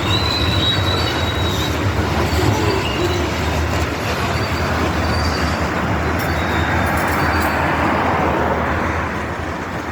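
Freight train rolling past: steady rail and wheel noise with a low engine hum, and a thin, high wheel squeal in the first second or so. It eases off slightly near the end.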